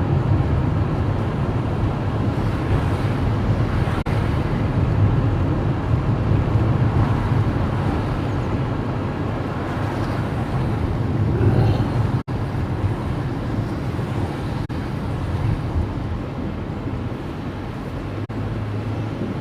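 Steady engine and tyre noise of a car being driven on rain-soaked roads, heard from inside the cabin; the sound cuts out for an instant about twelve seconds in.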